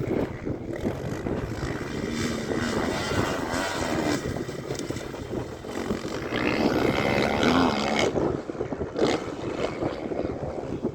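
Motocross bike engines revving up and down as the bikes ride the track. It swells loudest in the middle, cuts off sharply about eight seconds in, and gives one more short rev a second later.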